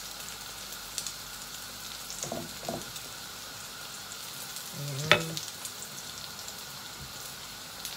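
Butternut squash and shrimp fritter (okoy) shallow-frying in oil in a pan: a steady sizzle with small crackles, with a spatula working under the fritter. A single sharp knock about five seconds in.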